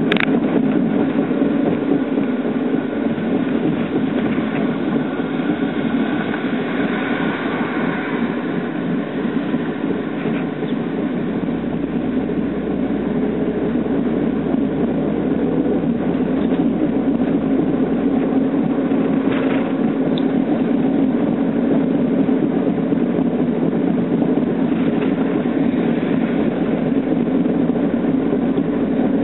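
Worn wheel hub bearing on a Mazda Roadster (NB6C) droning steadily while the car is driven, mixed with road noise. The abnormal noise is the sign of a failing hub bearing, made much worse by hard circuit driving.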